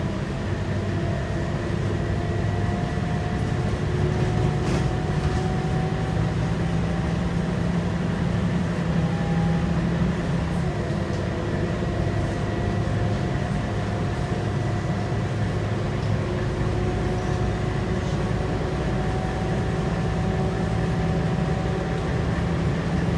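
Scania K230UB bus's 8.9-litre five-cylinder diesel engine pulling as the bus gathers speed, its pitch climbing slowly, dropping with an automatic gearbox upshift about ten and a half seconds in, then climbing again. A steady high whine runs alongside.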